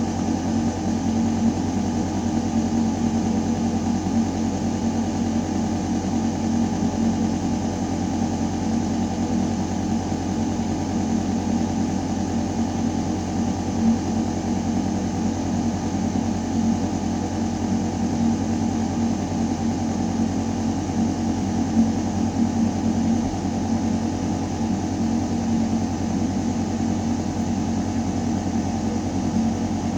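Building ventilation system running: air moving through metal ductwork, a deep, steady hum with several held tones that does not change.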